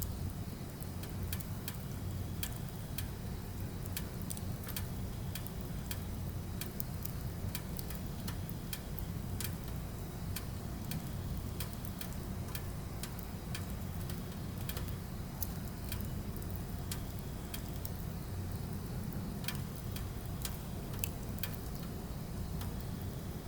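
Firewood burning: irregular sharp crackles and pops, several a second at times, over a steady low rumble of the flames.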